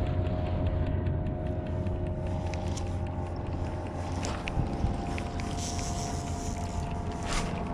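A motorboat engine running steadily, a low rumble with a steady hum over it, with a few sharp clicks.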